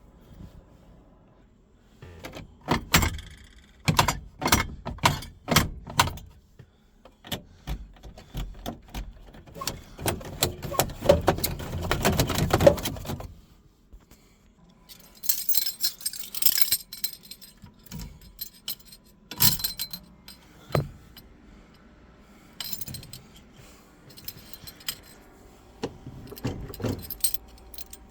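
Car keys jangling, with scattered sharp clicks and knocks from handling. The jingling is densest about halfway through.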